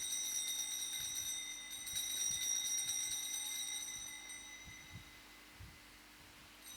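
Altar bell ringing rapidly and continuously at the elevation of the chalice, right after the words of consecration; it fades out after about four seconds and starts ringing again near the end.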